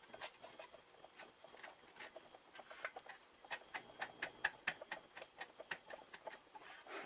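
Light, irregular metallic taps and clicks as an exhaust baffle is worked into a motorcycle silencer. The clicks come a few at a time, then quicken to several a second in the middle.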